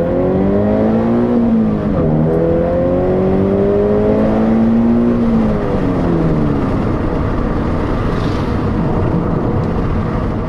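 Subaru BRZ / Scion FR-S / Toyota GT86 flat-four engine through a Borla 11839 axle-back exhaust, heard from inside the cabin under acceleration. The exhaust note climbs in pitch, dips at an upshift about two seconds in, climbs again, then falls away as the throttle is lifted around six seconds in, leaving steady road and tyre noise.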